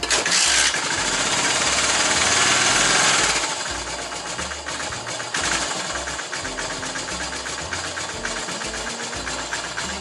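Yamaha SR500's air-cooled single-cylinder four-stroke engine catching and running just after being started. It is loudest for the first three seconds or so, then settles into steadier, quieter running with an even firing beat.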